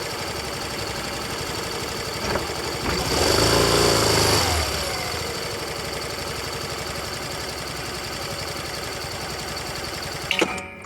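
Yamaha Fazzio scooter's 125 cc single-cylinder engine running, swelling briefly about three to four seconds in and then settling to a steady idle. Near the end a couple of sharp clicks and the engine cuts out: it is switched off.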